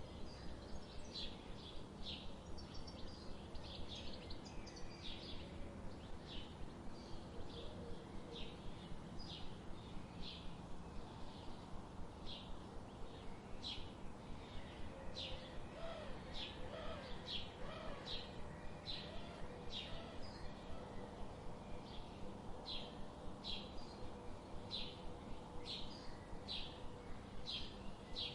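Birds chirping: short, high calls repeated steadily, about one or two a second, over a faint steady background hiss. A few lower, wavering calls come in around the middle.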